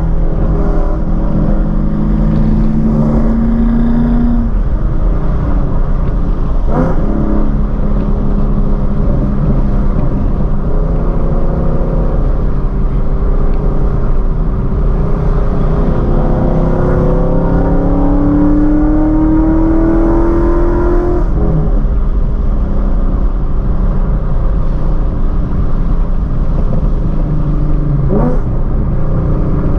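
Car engine accelerating on the road over steady road rumble. Its note climbs in long rising sweeps, with sudden breaks about seven, twenty-one and twenty-eight seconds in, as at gear changes.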